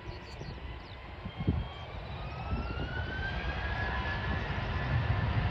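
Jet airliner engines whining and rising steadily in pitch, over a low rumble that grows louder. There is a brief thump about one and a half seconds in.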